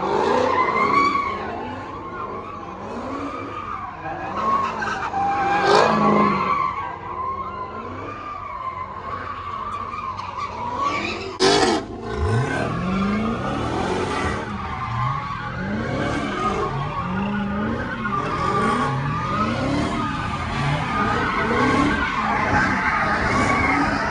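Car engines revving hard again and again, each rev a short rising pitch, under a wavering screech of spinning tyres. There is one sharp crack about halfway through.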